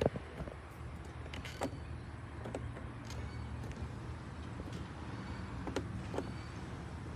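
Ride-on tractor's motor running with a low steady hum, with a few light clicks and knocks.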